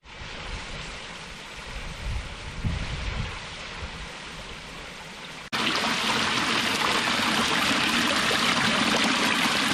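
Creek water running over a small cascading waterfall, a steady rush. About five and a half seconds in it cuts abruptly to a much louder, closer rush of the falling water.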